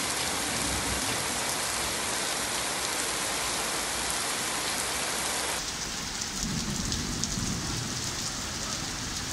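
Heavy rain pouring down, a steady hiss of rain falling on a paved street. The sound changes abruptly about halfway in, to rain on a wider street with a faint low rumble underneath.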